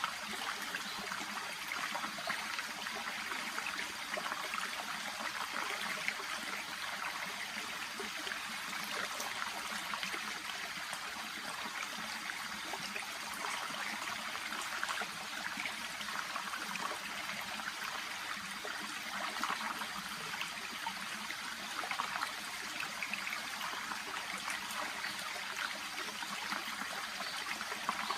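A small, shallow brook babbling steadily, with a continuous fine trickling and splashing of water over stones and through water plants.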